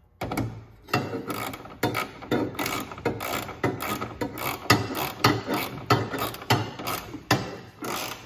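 Hand socket ratchet tightening screws: repeated ratcheting strokes, each a burst of clicks, roughly every half second, as the screws are snugged up.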